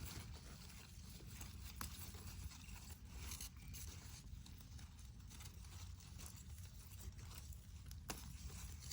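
Faint rustling and light clicking over a steady low rumble, with a sharp click about two seconds in and another near the end.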